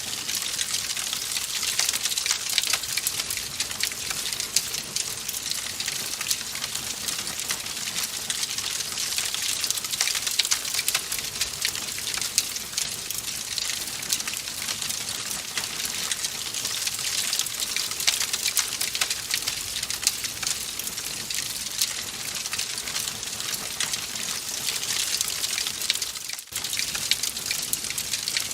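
Wood fire crackling in a fireplace: a steady hiss full of small, dense pops and snaps, with a brief drop in level about two seconds before the end.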